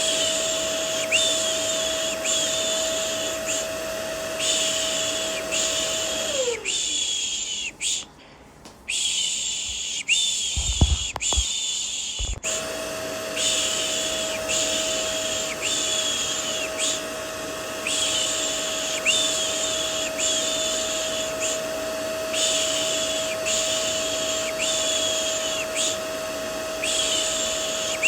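Vacuum cleaner running with a steady hum, overlaid with a repeated "shh" shushing about once a second. About six seconds in, the vacuum motor winds down and stops, a few dull thumps follow, and the vacuum noise cuts back in about six seconds later.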